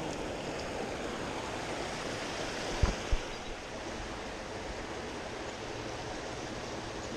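Steady rush of a mountain trout stream flowing over rocks, with two brief low thumps close together about three seconds in.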